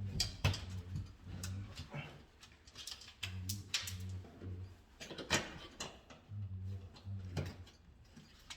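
Scattered sharp clicks and taps of hand tools at work, over a low hum that comes in short pulses, about three at a time, with pauses between the groups.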